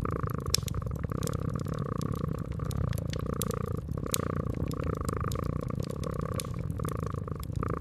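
Domestic cat purring steadily, swelling and easing every second or so, with a wood fire crackling in sharp, irregular pops.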